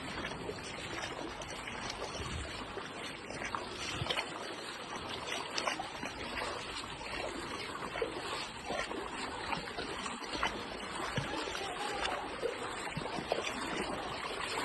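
Floodwater rushing and splashing: a steady wash of moving water with a few short splashes.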